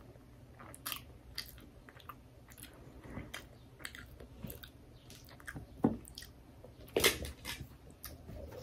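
Close-up chewing of a mouthful of sushi roll: soft, wet mouth sounds and small clicks, with the loudest sounds about six and seven seconds in.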